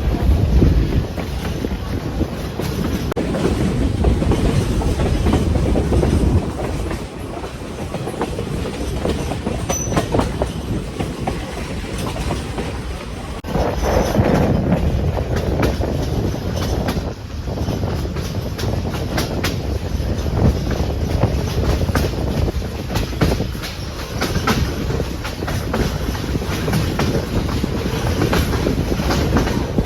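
Passenger train rolling along the track: a steady rumble with the wheels clicking over rail joints. It eases about six seconds in and grows louder again about halfway through.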